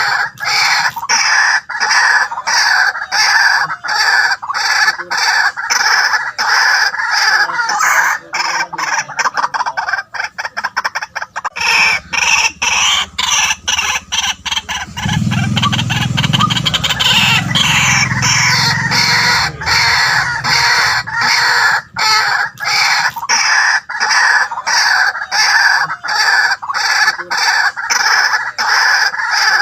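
White-breasted waterhen calling, a continuous rapid run of short, harsh repeated notes.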